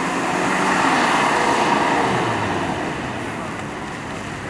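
Road traffic noise in a busy street, swelling about a second in and fading again, like a vehicle passing close.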